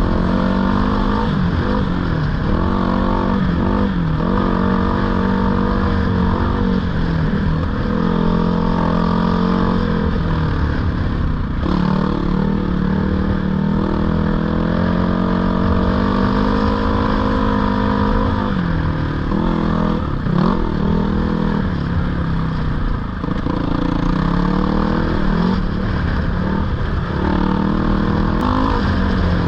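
GPX 450R four-stroke dirt bike engine being ridden, the engine note rising and falling over and over with throttle and gear changes.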